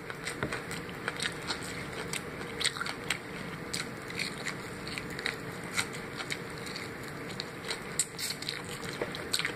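Close-up eating of fried chicken: biting into and chewing the crust and meat, with many small, irregular crunchy clicks throughout.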